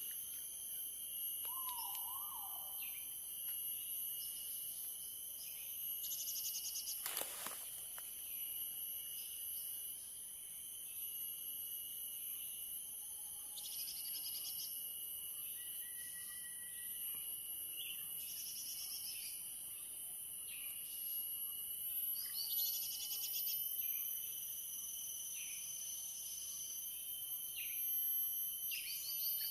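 Short bursts of high bird chirps every few seconds, from an MP3 recording of bird commotion played to lure small birds to lime sticks, over a steady high-pitched whine. There is one sharp click about seven seconds in.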